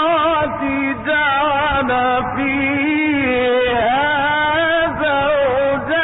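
A solo male reciter chanting the Quran in the melodic mujawwad style: long, sustained, ornamented phrases with wavering pitch and vibrato. The recording is old and narrow-band, with no high treble.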